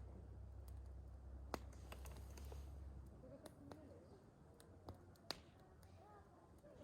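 Wood campfire crackling softly, with sparse sharp pops and snaps a second or so apart.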